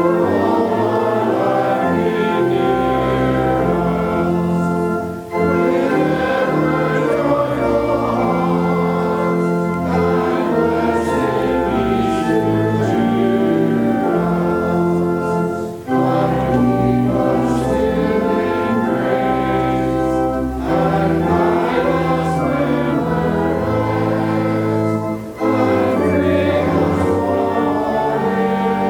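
Choir singing a sacred piece with organ accompaniment, in long held chords with a brief break between phrases about every ten seconds.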